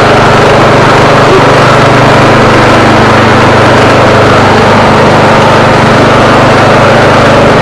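Old lawn tractor's Briggs & Stratton 12.5 hp engine running steadily and loud, at an even speed.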